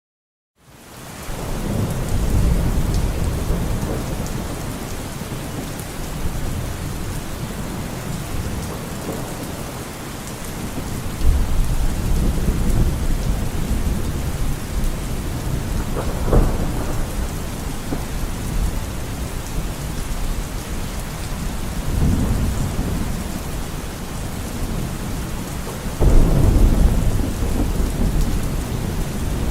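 Steady rain falling, fading in at the start, with several low rolls of thunder; the loudest comes near the end.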